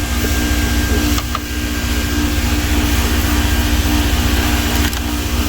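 A 2006 Jeep Liberty's 3.7-litre V6 idling steadily with a low pulsing rumble, with a couple of faint clicks around it.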